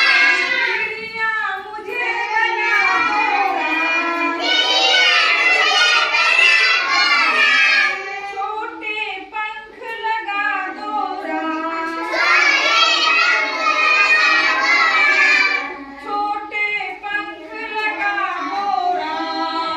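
Children singing a Hindi nursery poem in a sing-song chant, with louder stretches alternating with quieter ones.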